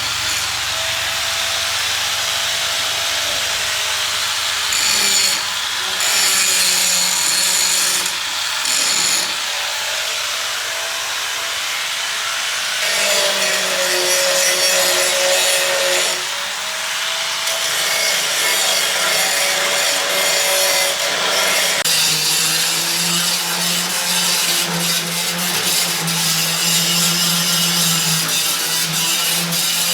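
A power tool running steadily against wood, with a steady motor tone that changes pitch a few times as the tool takes and eases off the cut.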